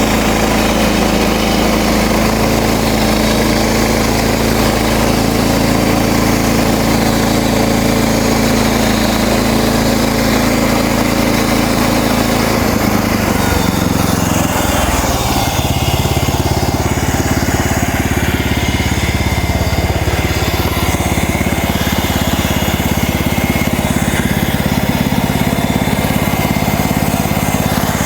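Gas engine of a MechMaxx portable bandsaw sawmill running steadily under load while the band blade saws a cedar log into thin siding boards. The engine note changes about halfway through.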